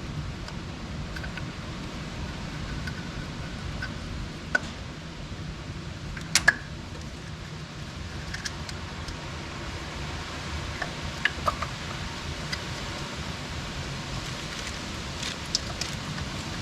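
Scattered sharp clicks and clinks of hand tools working at the tractor's hydraulic filter, the loudest a quick pair about six seconds in, over a steady low hum.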